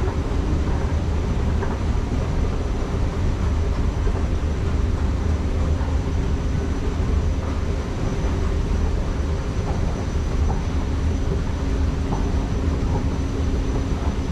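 Metro train running: a steady low rumble with a faint constant hum and a thin high whine.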